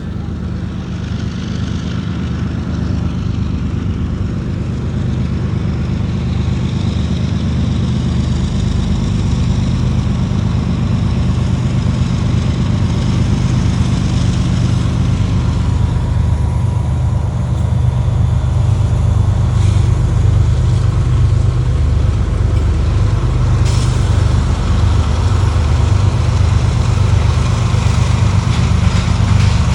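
Diesel freight locomotives running slowly, a steady low engine drone that grows louder throughout as they draw closer. Two brief high sounds come about two-thirds of the way in.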